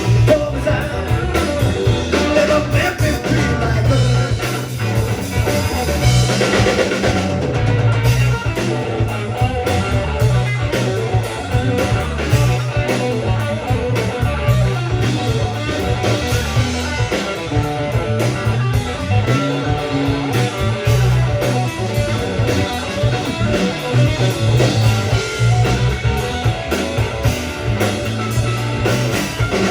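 A rock band playing, with guitar and drums.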